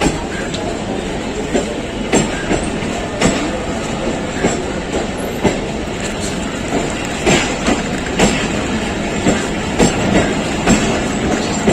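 Passenger train coaches rolling past with a steady rumble, the wheels knocking over the rail joints in an irregular clickety-clack, roughly one knock a second.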